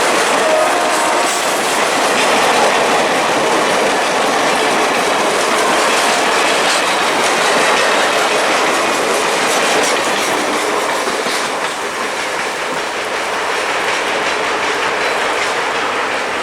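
Passenger train rolling past, its wheels clacking steadily over the rail joints.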